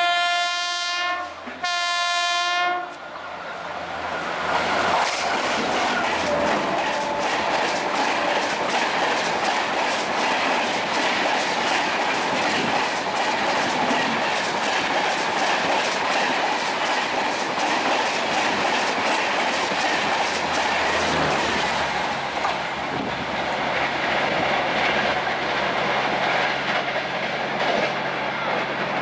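Electric locomotive's horn sounding two blasts, the second one short, then a high-speed express of LHB coaches rushing past close by with a rapid clatter of wheels over rail joints. The clatter eases off about two-thirds of the way through as the train draws away.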